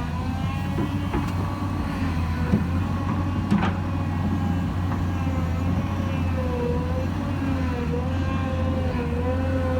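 Heavy diesel machinery running steadily, with a wavering whine above the engine hum and a couple of short knocks, the first about two and a half seconds in.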